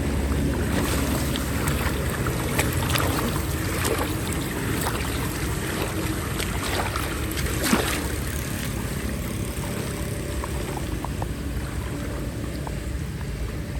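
Floodwater flowing into a blocked street drain, with a steady low rumble and scattered splashes and knocks as debris is pulled out of the water by hand.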